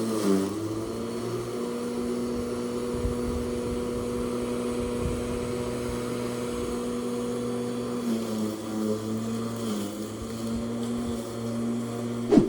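Lawn mower engine running steadily, its pitch dipping briefly near the start and again about ten seconds in. A sharp knock near the end.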